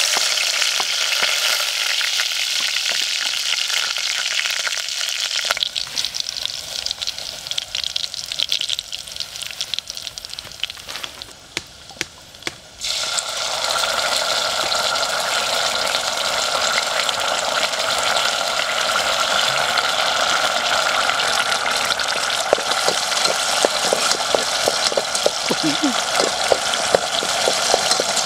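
Chopped aromatics dropped into hot oil in a metal pot, frying with a loud sizzle that begins suddenly and dies down over several seconds. About 13 s in it flares up loud again as a dark sauce goes into the oil, and near the end a utensil stirring the pot adds short taps over the sizzle.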